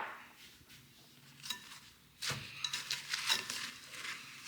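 A spoon stirring snow ice cream (snow mixed with sugar, vanilla and milk) in a bowl. Irregular scraping and clicking starts about two seconds in and keeps on in quick strokes.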